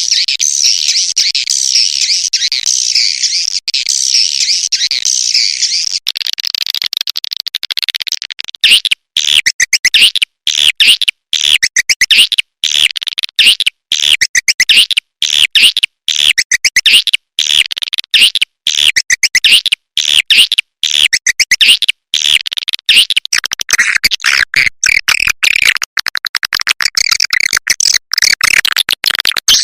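Swiftlet (burung walet) call recording of the kind played to lure swiftlets into a swiftlet house. It opens as dense, continuous high twittering, and after about eight seconds it turns into choppy, rapidly repeated chirps broken by many short gaps.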